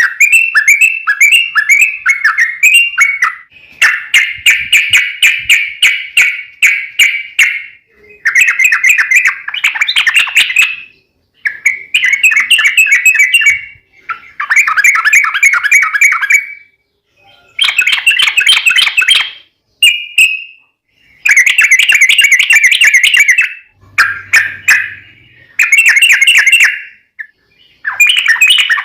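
Trucukan (yellow-vented bulbul) singing a long, rapid chattering song: bubbly phrases of one to three seconds, repeated about ten times with short pauses between.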